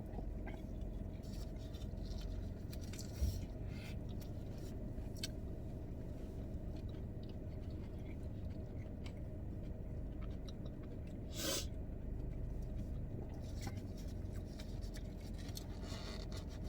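Eating sounds: quiet chewing with scattered small rustles and scrapes of food and packaging over a steady low hum. A short knock comes about three seconds in and a sharper rustle about eleven seconds in.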